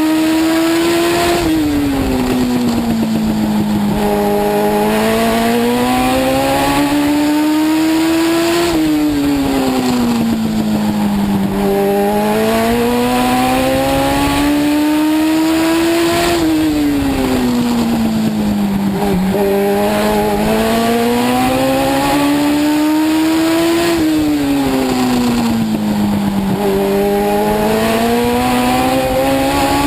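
Legend race car's Yamaha motorcycle engine, heard from inside the car, revving up along each straight and dropping in pitch as the driver lifts for each turn of a short oval. The rise-and-fall repeats about every seven to eight seconds, once per lap.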